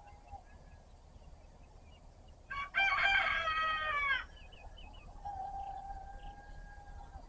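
A rooster crowing once, loudly, about two and a half seconds in and lasting under two seconds, its pitch falling at the end. A fainter long steady call follows, with faint bird chirps behind.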